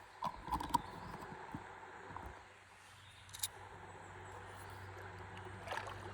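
A few light knocks and clicks on a stand-up paddleboard afloat on a river: a quick cluster just after the start, a single one in the middle and another small cluster near the end, over a faint steady background of moving water.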